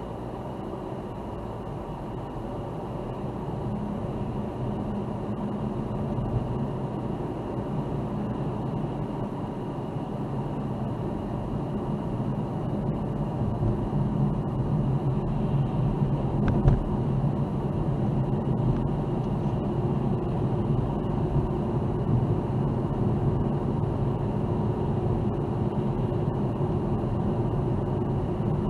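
A car being driven: steady road and engine rumble that grows louder over the first dozen seconds or so as it picks up speed, then holds steady. There is a single short knock about sixteen seconds in.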